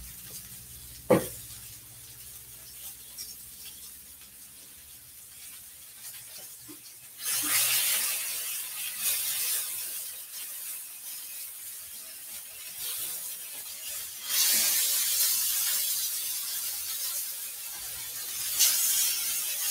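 Sesame-crumbed chicken tenders sizzling as they fry in a pan. The sizzle swells up about seven seconds in and again, louder, a few seconds later, and a single sharp knock comes about a second in.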